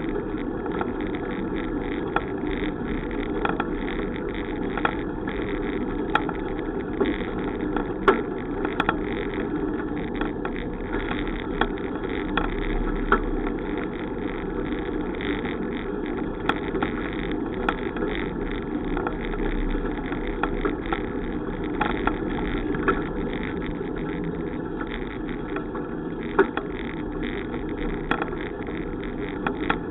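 Bicycle being ridden: steady rolling and wind noise with frequent small clicks and rattles.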